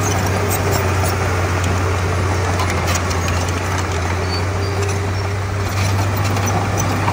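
Komatsu D31P bulldozer's diesel engine running steadily with a low hum, with faint light clinks over it.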